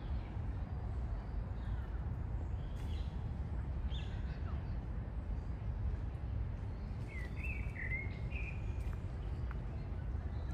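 Songbirds chirping over a steady low outdoor rumble: a few short high chirps, then a quick run of chirping notes about seven to eight seconds in.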